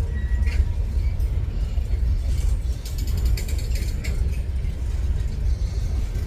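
Freight train cars rolling past: a steady deep rumble with rattling and clicking from the wheels and running gear, and a brief high squeal near the start.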